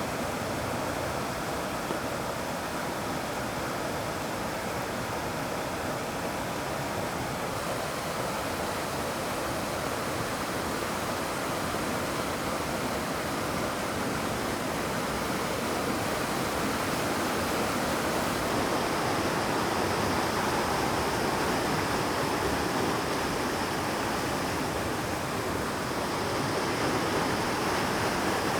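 Rushing water of the Oirase Gorge mountain stream, a steady, full sound with no breaks.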